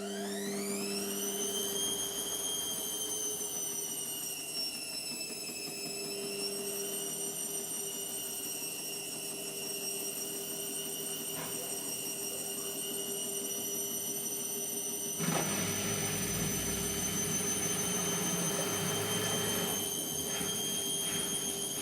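Indesit MTWC71252WUK washing machine on a spin: the motor's whine rises quickly as the drum speeds up, then holds steady and high. About fifteen seconds in, a louder rushing and low rumble from the drum joins the whine.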